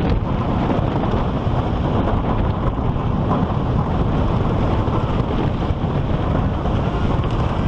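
Wooden roller coaster train running along the track, a steady rumble mixed with heavy wind rushing over the microphone.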